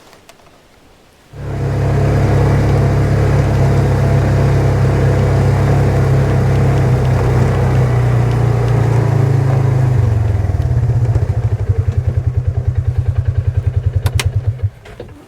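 A small vehicle engine runs steadily, then about ten seconds in drops to a slower, pulsing idle and shuts off suddenly near the end.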